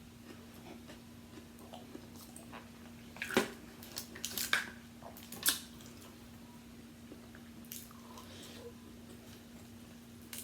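Close-up mukbang eating of seafood: chewing with several sharp wet smacks and crackles, the loudest clustered about three to five seconds in, over a faint steady hum.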